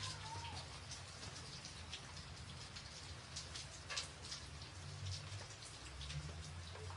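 Rain falling on a tin roof: a steady patter with many individual drops ticking sharply on the metal, over a low steady rumble.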